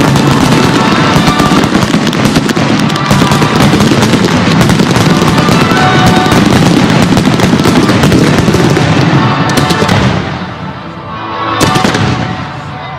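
A fireworks display going off in rapid volleys of bangs and crackles, over loud show music from loudspeakers. The barrage eases about ten seconds in, then a fresh cluster of bursts follows near the end.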